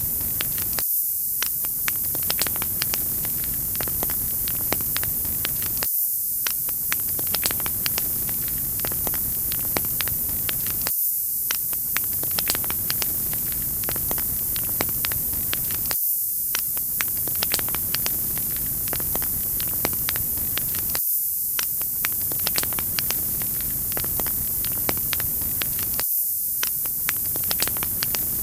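Wood fire crackling in a fireplace: many sharp pops and snaps over a steady hiss. The lower part of the sound cuts out for an instant about every five seconds, as a short recording loops.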